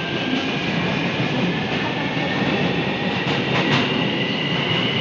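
Daegu Metro 1000-series electric train running between stations: steady wheel-on-rail rumble under a high whine of several tones from its Siemens GTO VVVF traction inverter and motors. Two sharp clicks from the wheels come a little past halfway through.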